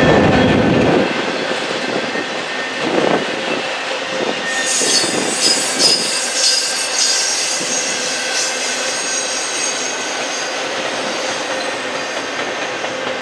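Freight train of autorack cars rolling past, wheels knocking over the rail joints. From about four and a half seconds in, a high wheel squeal rises over the rumble for several seconds.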